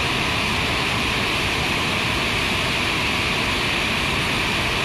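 Berkri waterfall on the Bendimahi river, a steady, loud rush of falling water.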